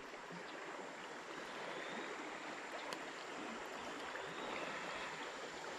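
Creek water flowing steadily and faintly, with a small tick about three seconds in.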